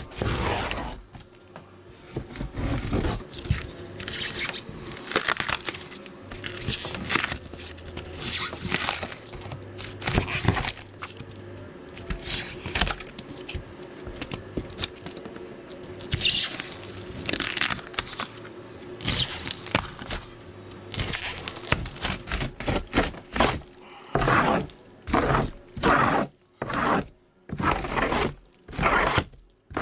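Hand work on a camper's wooden subfloor: irregular scraping and rubbing strokes on wood, turning over the last few seconds into a quick run of short, regular strokes, about one and a half a second.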